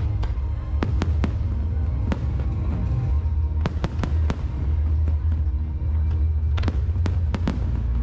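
Aerial fireworks display: a heavy, continuous low booming from shell bursts, broken by clusters of sharp cracks.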